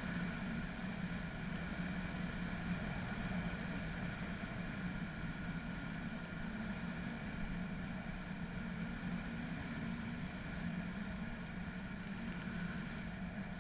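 A steady engine hum at an even pitch over a constant hiss, holding level without revving up or down.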